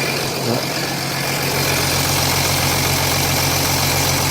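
Jeep Grand Cherokee 3.0 CRD (Mercedes OM642 V6 turbodiesel) idling while still warming up, with a steady rattle running through the engine that the owner thinks could be timing chain trouble.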